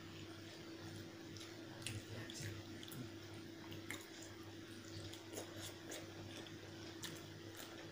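Close-up wet eating sounds: chewing and soft, squishy clicks and smacks as chicken curry with rice is eaten, scattered irregularly. A steady low hum runs underneath.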